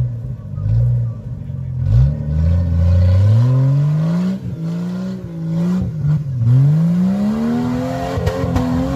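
Jeep Wrangler on large mud tyres climbing a steep dirt slope, its engine revving up and down repeatedly as the throttle is worked, with long rising sweeps in pitch and holding high near the end.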